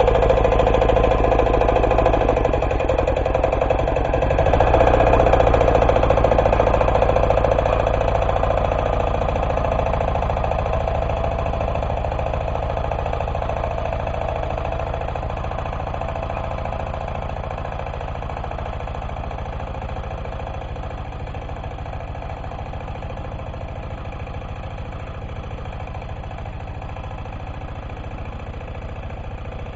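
Single-cylinder diesel engine of an MB2 walk-behind tractor running steadily under load while ploughing without extra ballast weights. It swells briefly about five seconds in, then grows gradually fainter.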